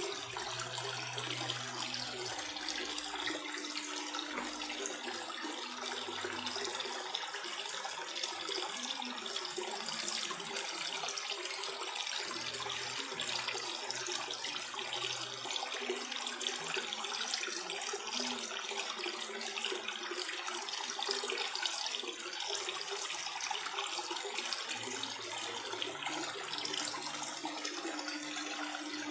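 Aquarium water running and splashing steadily, with a faint low hum coming and going.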